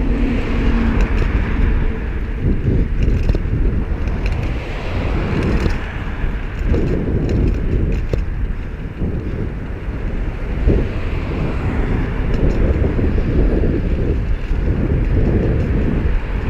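Wind buffeting the microphone of a moving bicycle as a steady low rumble, over a hiss of road traffic.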